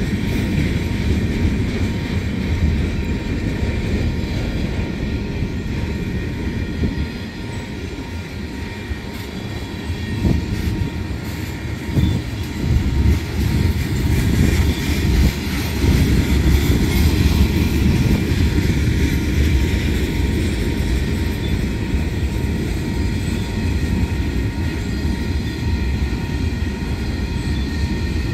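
Freight cars rolling past: a steady rumble of steel wheels on the rails, with sharper clacks and bangs and a louder stretch between about ten and seventeen seconds in.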